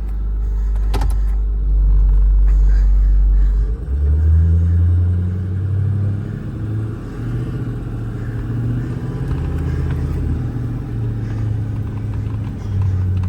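Ford F550's Power Stroke turbo diesel running cold, not yet at operating temperature, as the truck sets off. Its low rumble steps up in pitch about four seconds in, and there is a single click about a second in.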